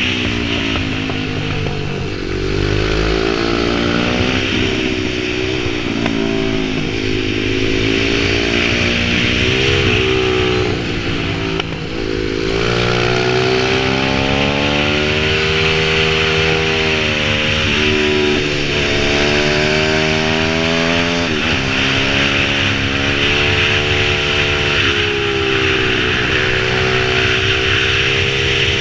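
Pit bike engine running under changing throttle, its pitch rising and falling again and again as it revs up and eases off. There is a short drop in revs about twelve seconds in.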